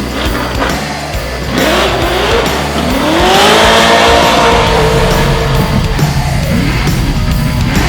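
Race car engine accelerating hard, its pitch rising twice and then holding high, over loud background music with a heavy beat.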